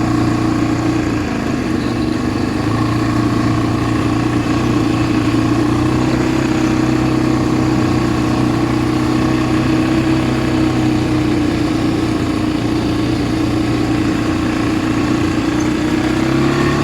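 ATV engine running steadily, with a small dip in pitch about a second in and a slight rise near the end.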